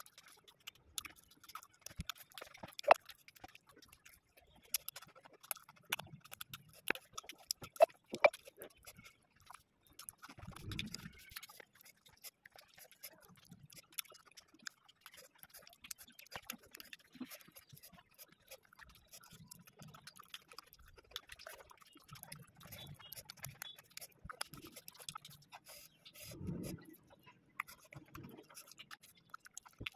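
A person chewing dried pork close to the microphone: wet smacking and crunching with many small clicks, and two short low mouth sounds, about ten seconds in and near the end.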